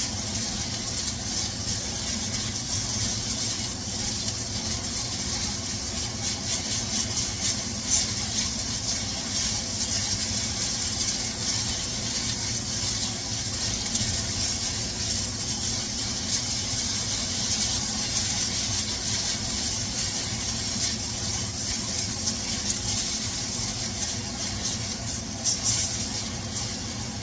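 Chicken pieces sizzling as they brown in hot oil in a wok, a steady hiss over a steady low hum. A few brief clicks and scrapes come from the utensils turning the pieces in the pan.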